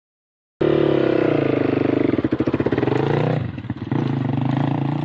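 Motorcycle engine running loudly, starting abruptly. Its pitch sags and recovers, with a brief dip a little past halfway before it runs on steadily.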